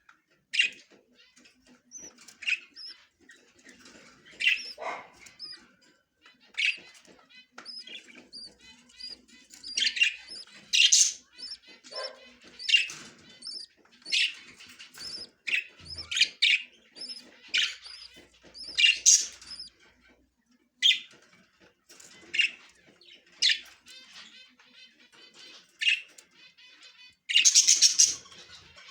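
Budgerigars chirping: short, sharp, high calls about once a second, with a soft, rapid warbling chatter underneath and a dense cluster of chirps near the end.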